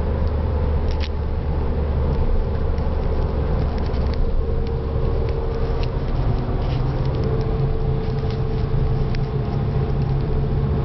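Exhaust note of a Ford Focus TDCi diesel engine breathing through a single Moroso Spiral Flow mid muffler, a steady low drone. Engine speed steps up about four to five seconds in and holds at the higher note.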